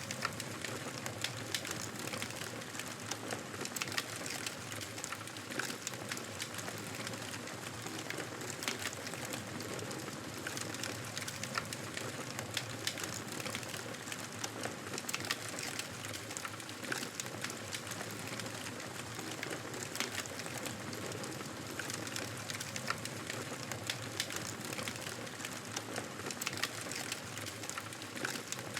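Wood fire in a fireplace crackling: a steady hiss studded with many small, irregular pops.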